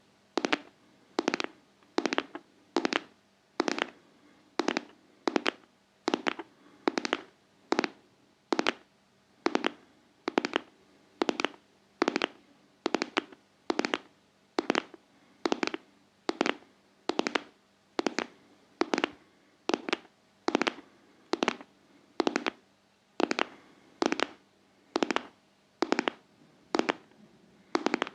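ASMR tapping on a heart-shaped object, short sharp taps in an even rhythm of a little over one a second.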